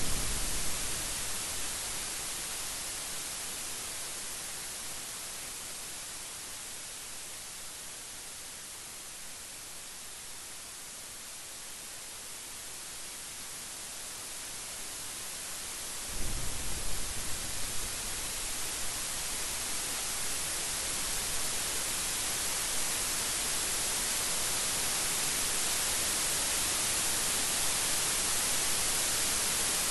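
Steady heavy rain hiss with thunder: a rumble fading away in the first few seconds, then a sudden thunderclap about halfway through that rumbles on for a couple of seconds. The rain grows louder toward the end.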